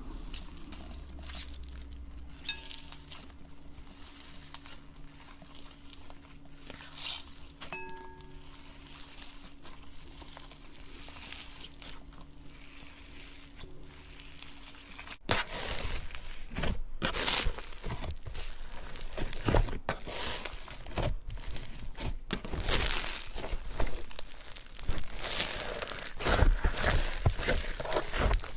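Slime being squeezed and stretched by hand, making crackling and crinkling sounds. Over a faint steady hum in the first half the crackles are quiet and sparse; about halfway the sound jumps abruptly to louder, denser crackling.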